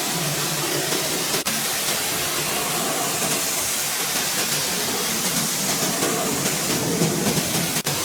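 Steady, loud hissing rush of a car-cleaning tool at work, dropping out for an instant twice.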